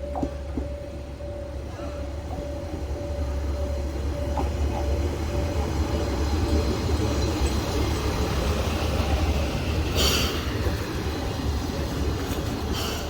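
Aizu Railway AT751 diesel railcar running between stations: a deep engine drone and wheel-on-rail noise, with a faint steady whine, grow louder over the first several seconds. Two short hissing rattles come near the end.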